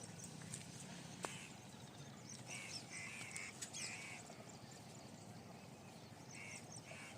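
Faint short, harsh bird calls: four in a quick run about two and a half seconds in, and two more near the end.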